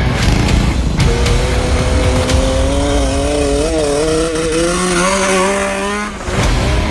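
Mini bike's small engine running hard, its pitch climbing slowly and wavering as it accelerates for about five seconds, then stopping suddenly near the end.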